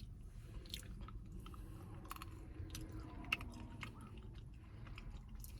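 Quiet mouth sounds of eating a S'mores Blizzard with chunks of chocolate in it: scattered small wet clicks and crunches, with one sharper click a little over three seconds in.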